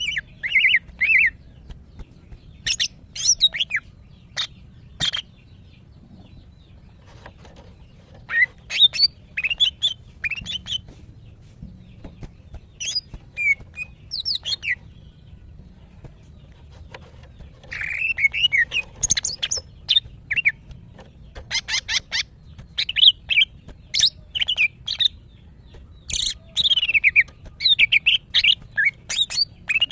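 Female greater green leafbird (cucak ijo) calling in repeated phrases of sharp chirps and short whistled notes, with pauses of a second or more between them: the calling of a hen in breeding condition, which draws males into song.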